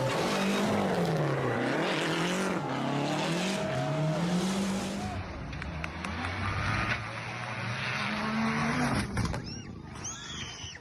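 Rally car engine revving hard, its note swinging up and down several times in quick succession. After an abrupt change about five seconds in, an engine runs steadier and then rises before fading near the end.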